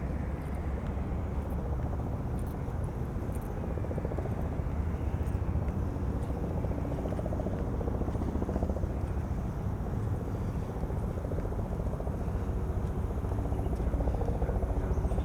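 Steady low rumble of wind with distant city background noise.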